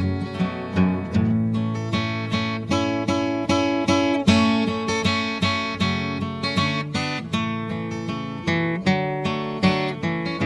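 Background music: acoustic guitar picked and strummed at a steady pace.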